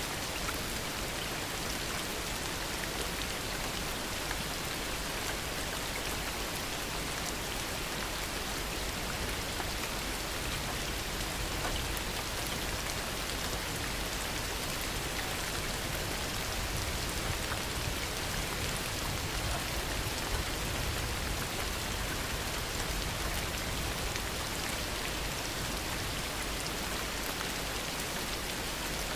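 Heavy rain falling steadily, a dense even hiss of drops with fine scattered patters, and a slight low swell near the middle.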